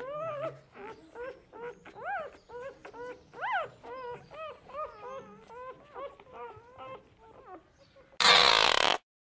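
Civet giving a rapid string of short, high whining mews, several a second, each rising and falling in pitch, with one louder arching call about three and a half seconds in. Near the end the calls stop and a brief, loud, harsh burst of noise cuts in.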